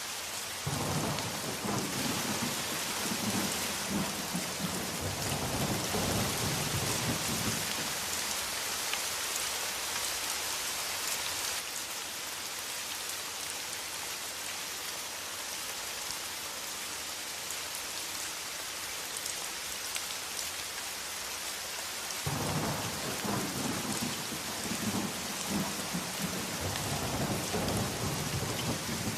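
Steady rain hissing, with two long low rolls of thunder: one starting just after the beginning and lasting about seven seconds, the other starting about 22 seconds in and running almost to the end.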